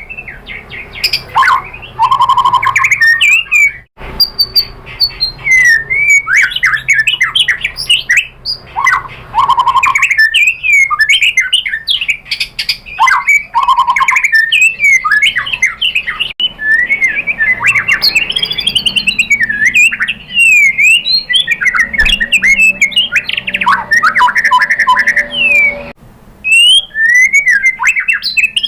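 White-rumped shama singing a loud, varied song of rich whistles, sweeping notes and rapid chattering trills, running through its repertoire of mimicked phrases (isian), with brief pauses about four seconds in and near the end.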